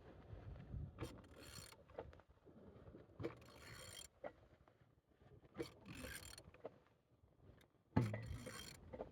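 A car engine being turned over by hand with a wrench, in several separate strokes, each starting with a sharp click or knock and followed by the clicking and scraping of the engine's internals rotating. The engine turns freely.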